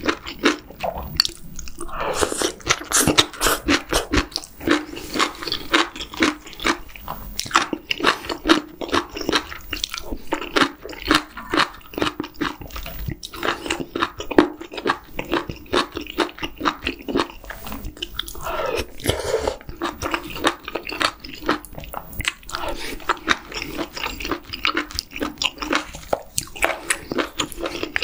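A person chewing mouthfuls of spicy stir-fried webfoot octopus with bean sprouts and rice close to the microphone: quick, wet, irregular chewing with crisp crunches.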